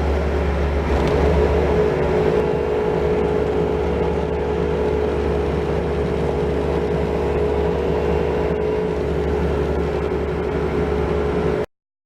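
Skid-steer loader engine running steadily with an even drone. It cuts off abruptly near the end.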